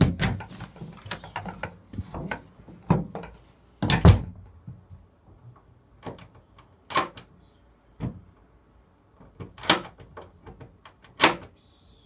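A door being shut and locked, heard from a phone recording inside the closed space: a run of knocks and clicks, a heavy thunk about four seconds in, then single sharp clicks and knocks at intervals, typical of a key or latch being worked.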